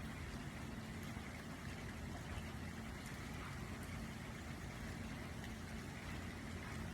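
Steady rain falling on the ground and a roof: an even hiss with a low rumble beneath it.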